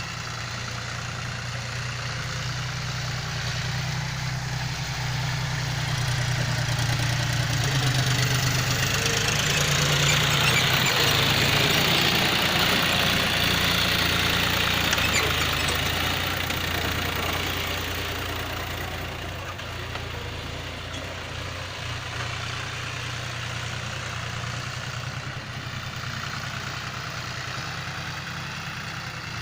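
John Deere 5039D tractor's three-cylinder diesel engine running steadily. It swells louder through the middle and settles back down after that.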